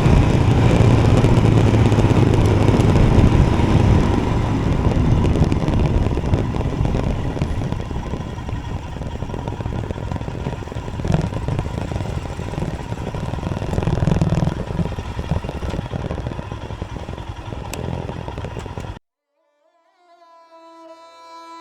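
Royal Enfield Himalayan motorcycle on the move, engine and road noise that slowly grows quieter, then cuts off suddenly near the end. Sitar music fades in just after.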